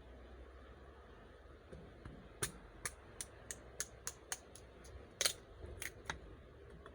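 Small wood fire crackling: about a dozen sharp, irregular pops over three or four seconds, against a faint low background.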